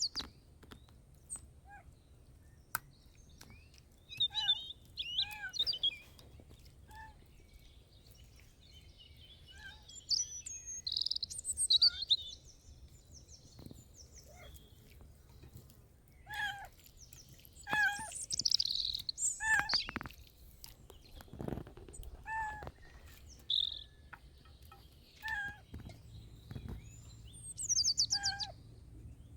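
Birds chirping and calling: scattered high chirps and quick trills, with short pitched calls repeating every second or two in the second half, over a low steady background rumble.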